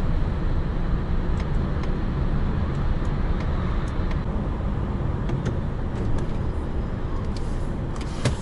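Diesel lorry engine idling steadily, heard inside the cab, with a few faint ticks and a sharper knock near the end.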